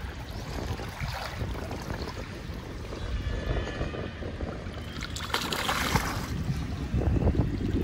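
Wind rumbling on the microphone over small waves lapping at a lake's edge, with a short hiss about five seconds in.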